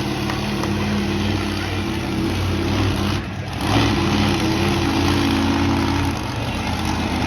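Monster truck engine running hard with a steady throb, easing off briefly about three seconds in and then coming back louder on the throttle.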